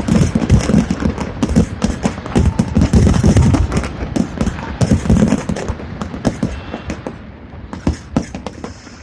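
Fireworks going off in a rapid barrage of bangs and crackles over a deep rumble, thinning out and growing quieter after about six seconds.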